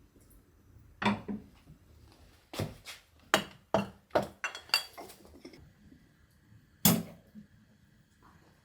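Dishes and utensils knocking and clinking: about nine separate sharp knocks, the loudest about a second in and again near seven seconds in.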